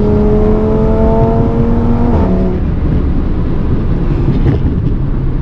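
Audi RS3's turbocharged 2.5-litre five-cylinder engine pulling under acceleration, heard from inside the cabin: its note rises for about two seconds, drops sharply with an upshift, then runs on steady at the lower pitch.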